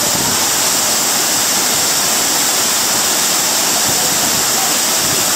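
Steady loud rush of a waterfall, falling water hissing without a break.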